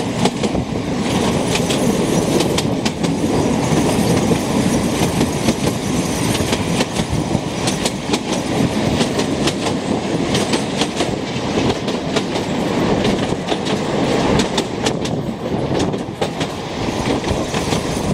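A 2 ft narrow-gauge passenger train running along the line, heard from an open coach doorway: a steady rumble and rattle of the wheels on the rails, with irregular sharp clicks over the track.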